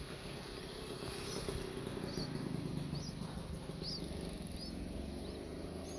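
A small bird giving short chirps about once a second, over the steady high drone of insects.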